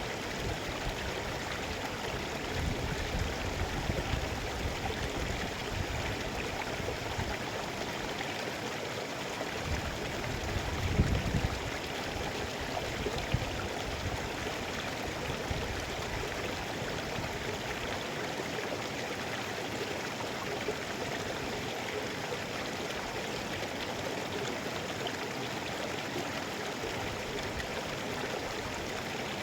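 Mountain river rushing steadily over rocks, an even hiss of flowing water. A few brief low rumbles come through, about eleven seconds in.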